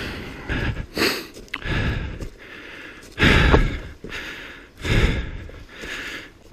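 A person breathing hard, with loud gusty breaths every second or two, and a couple of sharp knocks in between.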